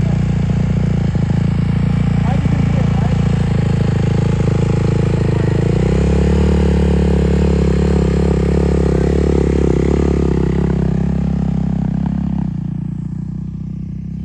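Dirt bike engine running steadily. About six seconds in its note shifts and gets fuller, then near the end it drops back and grows quieter.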